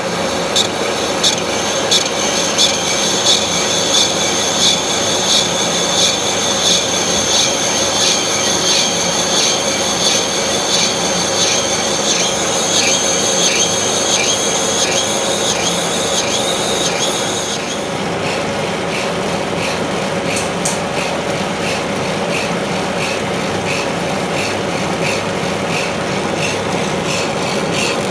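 Metal lathe rough-turning a hardened steel pellet-mill roller with a carbide insert: a steady running tone under a high metallic cutting screech that pulses about one and a half times a second with each turn of the roller. The screech drops back to a quieter scraping about two-thirds of the way in.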